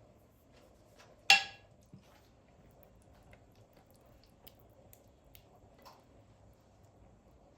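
One sharp metallic clink of kitchenware that rings briefly, about a second in, followed by a softer knock and a few faint taps and clicks of utensils being handled.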